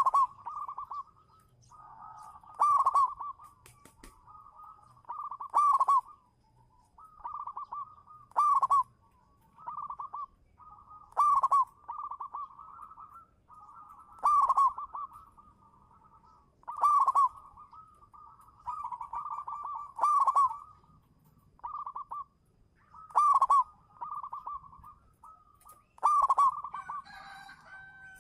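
Zebra dove cooing its song over and over: soft rolling coos, each run capped by a loud, clear note about every three seconds.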